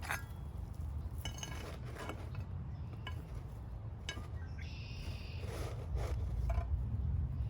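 Cookware and utensils clinking and tapping during food preparation, with one ringing clink about five seconds in, over a steady low rumble.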